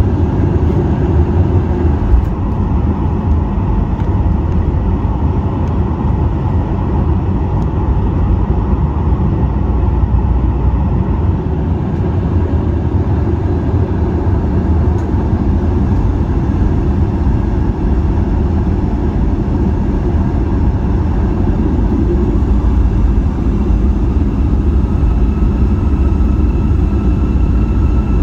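Steady low rumble of a Boeing 737 cabin with its jet engines running, heard from a passenger seat. Faint steady whining tones come in over the rumble in the last few seconds.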